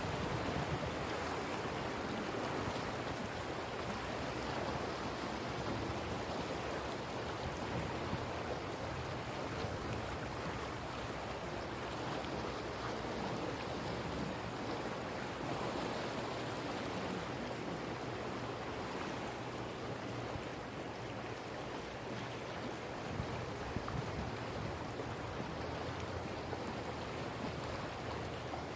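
Sea waves washing and breaking along the coast: a steady, continuous wash of surf with a low rumble beneath it.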